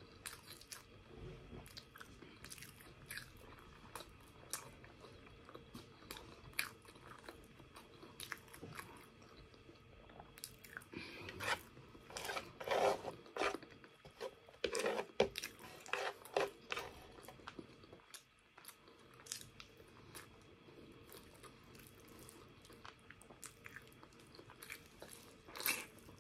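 Close-miked chewing of braised pork trotter and rice: many wet mouth clicks and smacks, with fingers picking food off a wooden board, busiest and loudest in a stretch about halfway through.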